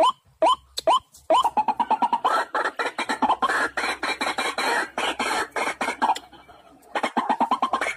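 White-breasted waterhen calling: short rising notes two or three a second, breaking into a fast, dense chatter about a second in. The chatter stops briefly about six seconds in and then starts again.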